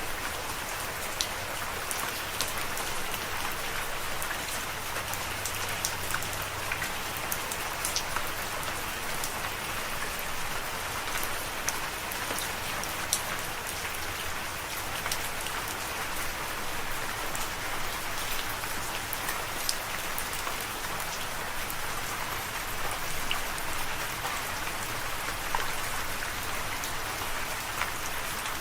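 Steady rain falling, an even hiss with many sharp individual drop taps scattered through it.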